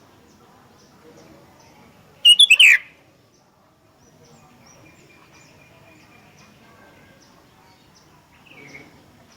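Sooty-headed bulbul calling: a loud burst of several quick notes falling in pitch about two seconds in, and a fainter call near the end.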